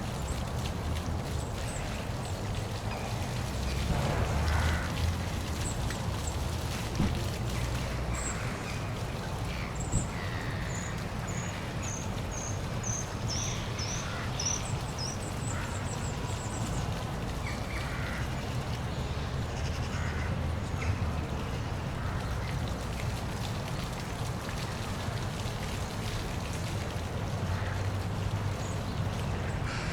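Park waterfall rushing steadily over a low rumble, with birds calling; about halfway through, a run of short, high chirps drops in pitch.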